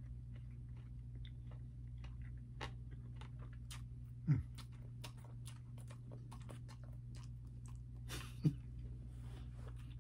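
A person eating chicken wings and sticky rice by hand: soft chewing, lip smacks and finger-licking clicks over a steady low hum. Two short sounds that drop in pitch stand out, about four seconds in and again near the end.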